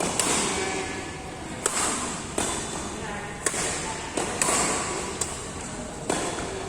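Badminton rally: rackets striking a shuttlecock with sharp smacks, about eight hits roughly a second or less apart, over background voices.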